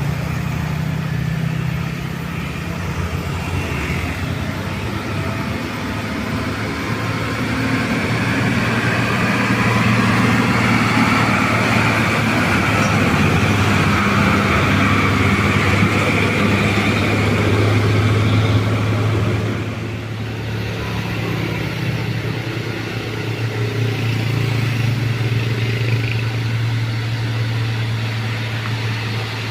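Heavy diesel truck engines labouring up a steep climb, with a steady low drone throughout. One truck grows louder through the middle and falls away abruptly about two-thirds of the way in.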